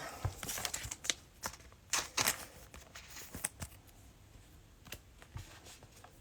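Trading cards being flipped through by hand: a scatter of soft clicks and slides of card on card, thicker in the first couple of seconds and sparser after.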